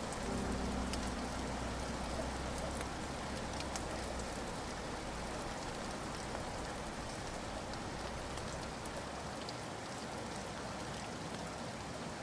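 Steady rain falling, with scattered drops ticking. A faint low tone from the music lingers in the first seconds and fades out.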